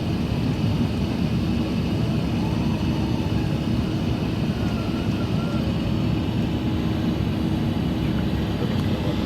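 Steady cabin noise of an Airbus A380-800 during takeoff or the initial climb: engine rumble and airflow with a constant low hum, heard from inside the passenger cabin.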